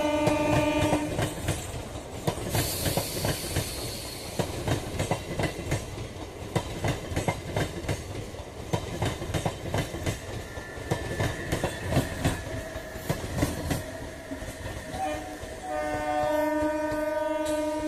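MEMU electric passenger train running past close by, its wheels clattering steadily over the rail joints. A train horn sounds briefly at the start and again, held longer, for the last couple of seconds.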